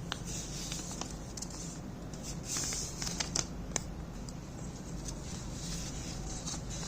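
A4 paper being handled and folded by hand: irregular rustling with several sharp crackles and clicks as the sheet is creased, most of them a little past the middle, over a steady low hum.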